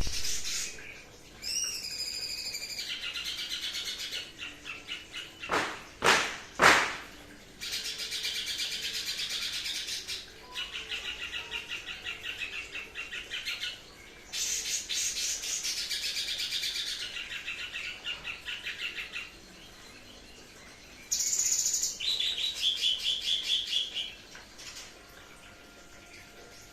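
Cucak cungkok songbird singing in rapid-fire bursts ('tembakan'): several phrases of fast, evenly repeated high notes, each a few seconds long, with short pauses between them. About six seconds in, two or three loud sharp knocks cut through.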